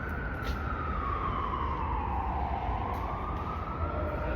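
Emergency vehicle siren sounding a slow wail: the tone falls over the first two seconds and then climbs again, over a steady low rumble.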